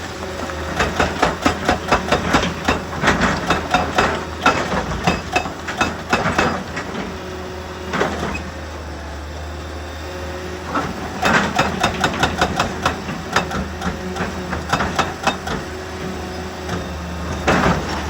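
Rocks knocking and clattering against steel machinery in two long, irregular flurries of sharp knocks, with single heavy knocks between, over the steady low drone of a heavy diesel engine.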